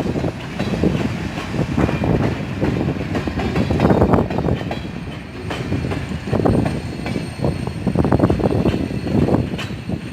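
GEXR freight train cars rolling along the track: a continuous rumble with irregular clanks and knocks from the wheels and couplers.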